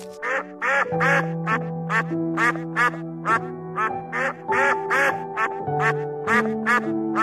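Ducks quacking in a quick series of short calls, about two a second, over steady background music.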